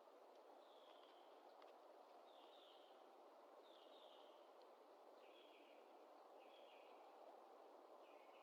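Near silence: faint outdoor background hiss with a faint, short, high-pitched call repeating about every second and a half, six times.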